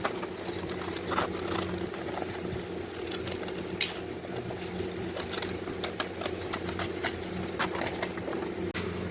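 A running machine or motor with a steady multi-pitched hum. Scattered clicks and light knocks sound over it, the sharpest one a little under four seconds in.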